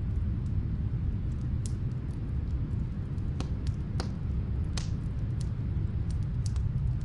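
Snowstorm wind as a steady low rumble, with the scattered sharp pops and crackles of a wood fire burning in a fireplace.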